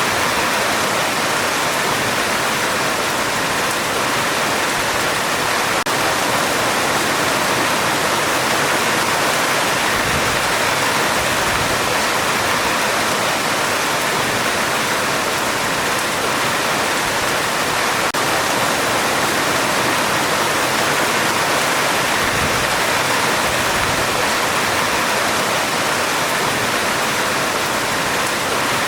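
Heavy rain falling steadily on a metal roof, a dense, even hiss with no break.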